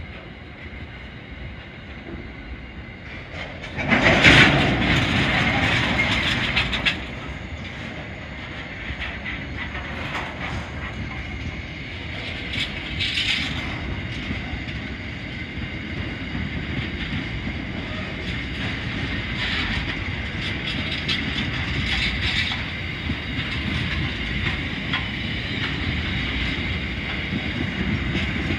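Freight train of tank-container wagons passing close by: a steady rumble and rolling noise, with wheels clicking over the rail joints. About four seconds in there is a louder rush lasting about three seconds.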